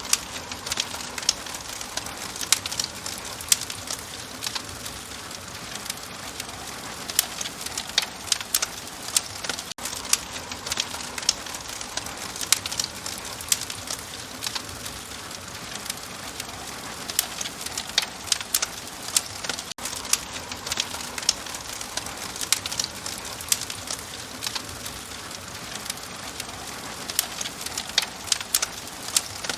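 Open wood fire crackling: a steady soft hiss with irregular sharp pops and snaps, which come in busier clusters at times.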